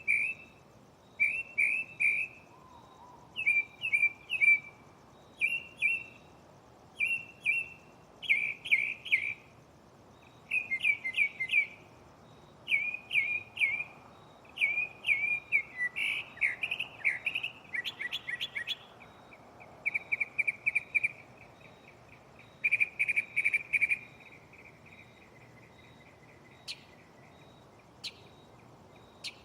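Northern mockingbird singing: short phrases, each repeated two or three times before it switches to a new one, with a fast, rattling trill in the middle. The song stops about 24 seconds in, leaving a few sharp single notes.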